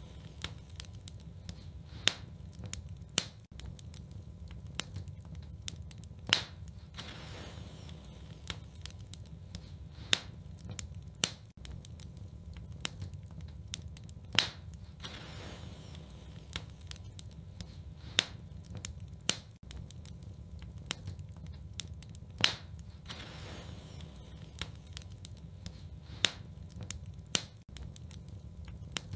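Wood fire burning in a fireplace, crackling, with a sharp pop every few seconds over a steady low rumble.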